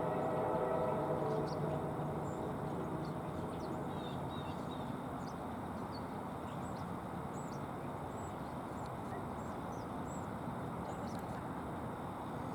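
Diesel locomotive horn, from the train's SD40-2 lead unit, ending its blast and trailing off in the first two seconds. A steady low noise follows, with birds chirping faintly throughout.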